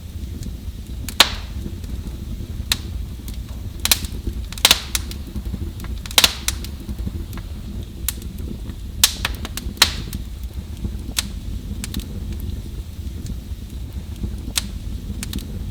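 Fire in a fireplace crackling, with irregular sharp pops and snaps over a steady low rumble of the flames. A few louder pops stand out, about a second in, around four to five seconds, and near six and nine to ten seconds.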